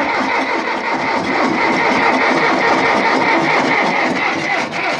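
John Deere 2640 tractor's diesel engine being cranked by its starter motor on a cold start, turning over steadily for about five seconds without catching, then cut off. The owner puts the failure to start down to flat batteries in the cold.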